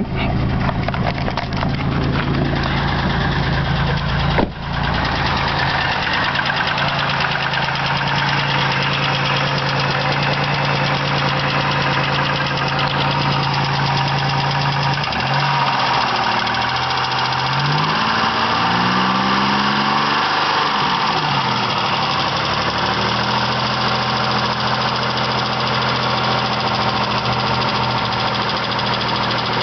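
2000 Chevrolet Malibu's 3.1-litre V6 idling with a steady tick from the top of the engine that persists when warm and sounds like piston slap to the owner, even after new lifters, plugs and wires. A single sharp knock about four seconds in.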